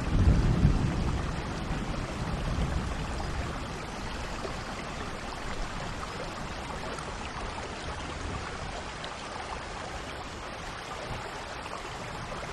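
Steady rain, with a low rumble of thunder right at the start that fades away over the next few seconds.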